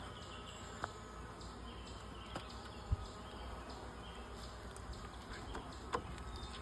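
Honeybees from a swarm buzzing around, a faint steady hum, with a few light clicks and one soft thump about three seconds in from handling the hive frames.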